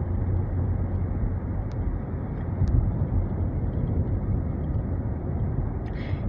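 Steady low road and engine rumble heard from inside a moving vehicle, with two faint ticks early on.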